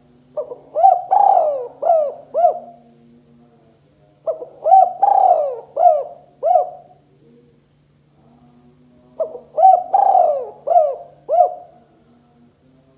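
Spotted dove (tekukur) cooing: three phrases about four seconds apart, each a short note, a longer drawn coo and then two or three quick short coos. A faint steady hum lies underneath.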